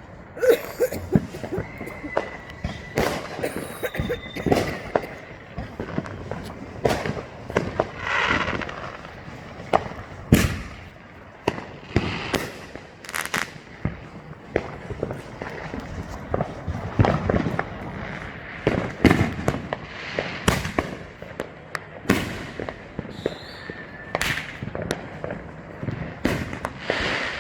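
A dense barrage of consumer fireworks going off across the neighbourhood: sharp bangs at irregular intervals, often several within a second.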